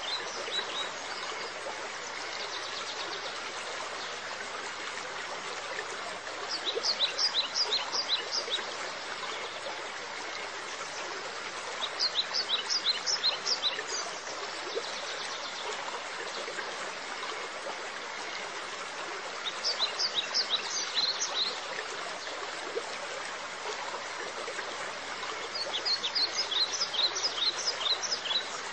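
Steady hiss of running, trickling water, with a small bird singing a quick run of high chirps, about five or six a second for some two seconds, repeated about every six or seven seconds.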